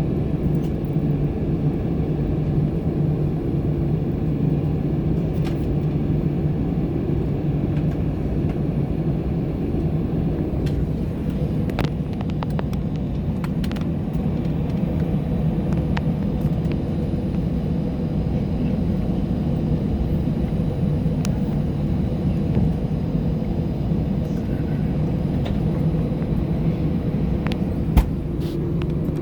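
Airbus A320 taxiing, heard from inside the cabin: a steady low hum from its jet engines at taxi power and the rumble of the wheels. A few light clicks come in the middle and one sharp click near the end.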